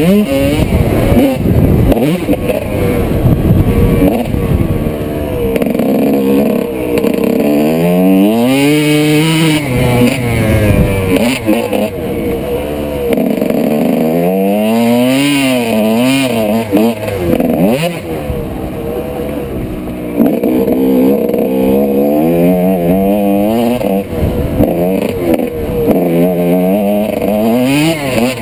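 1995 Honda CR125's single-cylinder two-stroke engine revving hard and backing off, its pitch climbing and dropping again and again.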